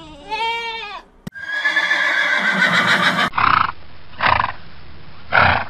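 A goat bleats, then a horse gives one long whinny falling in pitch, followed by three short noisy bursts from horses.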